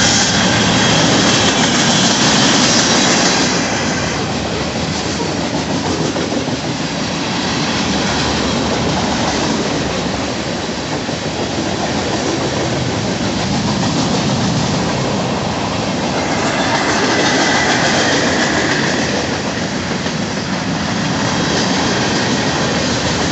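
Freight train's covered hoppers and boxcars rolling past close by: a steady rumble and clatter of steel wheels on the rails. A high wheel squeal rises over it briefly near the start and again about two-thirds of the way through.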